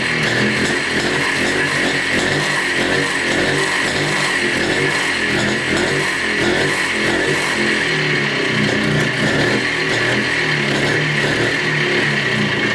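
Montesa Cota 247's single-cylinder two-stroke engine running steadily at a fast idle, its note wavering slightly, on its first run after 42 years standing; it will not settle to a low idle. A mechanical rattle in it is put down by the owner to the drive chain.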